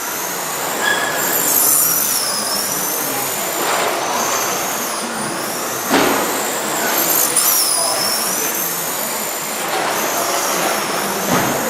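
Several radio-controlled stock trucks racing, their motors giving a high whine that rises and falls as they speed up and slow down. There is a sharp knock about six seconds in and another near the end.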